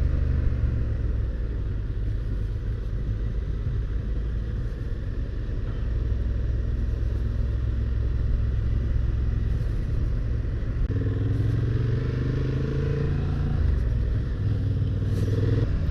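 Motorcycle engine running under way with a steady rush of wind and road noise. About eleven seconds in, the engine note climbs for a couple of seconds as the bike accelerates.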